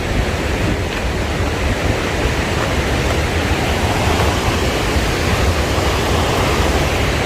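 Steady rushing of the Mardalsfossen waterfall: a dense, even wash of water noise with a strong low rumble.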